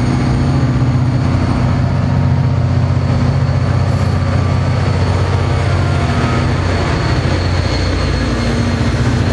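Commuter passenger train passing close by at speed: the coaches rumble over the rails under a steady low engine drone, and the locomotive at the rear goes by near the end.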